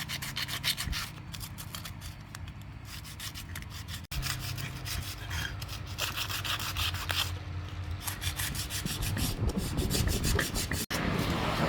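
Rapid abrasive rubbing in quick repeated strokes, as in sanding or scraping by hand. It breaks off abruptly twice and resumes.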